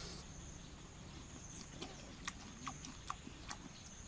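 Crisp crunching of fried crickets being chewed, about six sharp crunches in the second half, over a steady high-pitched insect trill.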